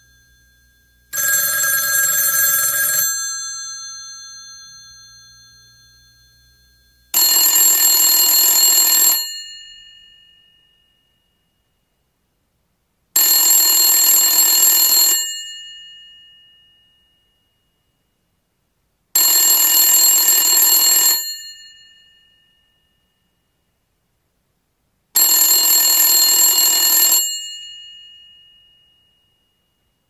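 Telephone bell ringing in two-second rings, each fading out, with about four seconds between them: five rings in all. The first ring has a slightly different tone from the four that follow.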